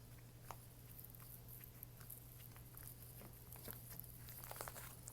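Faint, scattered sticky clicks and small squelches of soft, dense butter slime being handled and poked, over a low steady hum.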